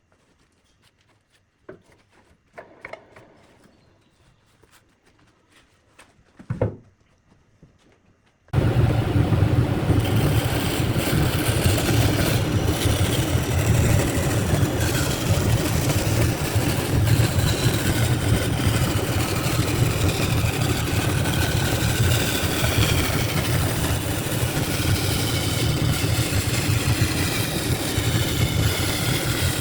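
A few faint handling knocks, then about eight seconds in a workshop power tool starts abruptly and runs loudly and steadily with a low hum.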